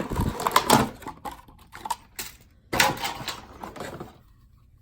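Irregular clicks, knocks and rustling of a plastic Poké Ball item and its packaging being handled, stopping about four seconds in.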